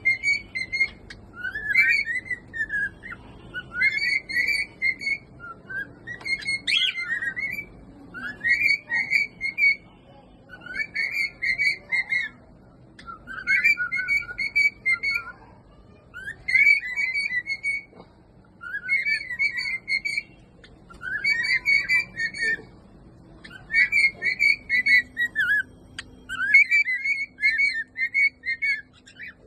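Pet cockatiel whistling the same short, warbling tune over and over, one phrase about every two seconds with brief pauses between.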